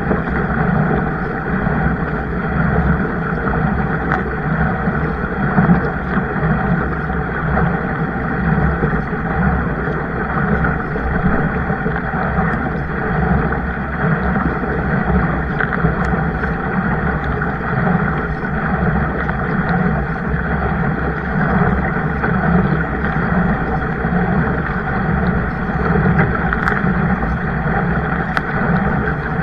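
Steady rushing noise of a boat moving on the water, unbroken throughout, with a few faint clicks near the end.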